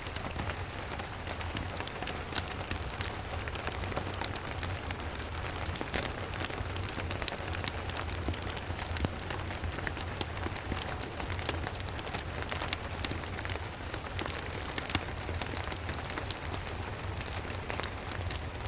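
Steady rain falling, mixed with the crackle of a wood fire in a fireplace: a dense patter of small sharp ticks over an even hiss, with a steady low rumble underneath.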